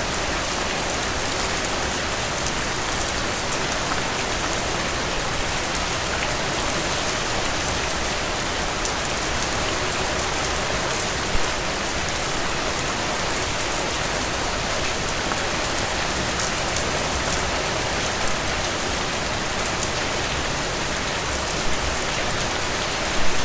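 Heavy rain falling steadily, a dense hiss of drops with individual drips ticking through it, and a few louder splashes.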